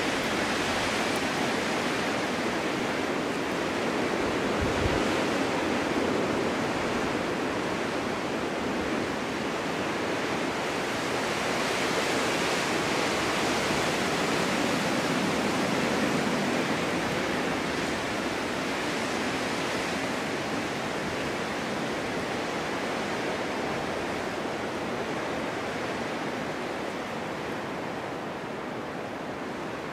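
Snowstorm wind blowing in a steady rush, swelling and easing in slow gusts and dying down a little near the end.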